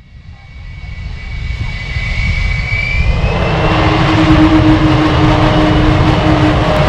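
Lockheed Martin F-35 Lightning II jet engine, growing louder over the first few seconds and then holding steady and loud. A high whine rises in pitch about two to three seconds in, over a deep rumble.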